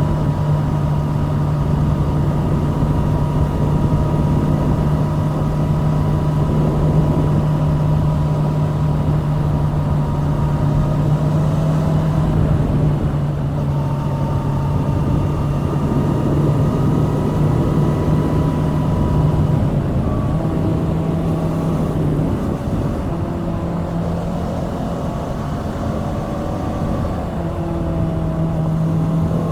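Kawasaki Z650's 649 cc liquid-cooled parallel-twin engine running under way at a steady cruising pace. The engine note shifts briefly about twenty seconds in and changes again near the end.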